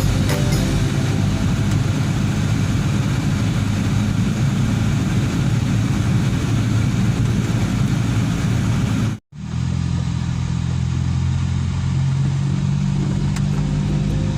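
An engine running steadily, with a loud low drone. The sound cuts out for an instant about nine seconds in, then carries on.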